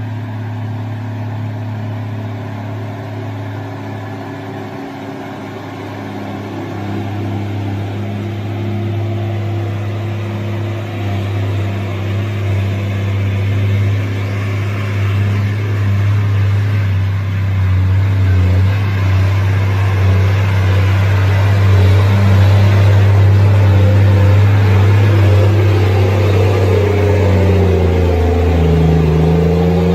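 A motor vehicle's engine running steadily under load, growing gradually louder. Its pitch dips briefly and recovers near the end.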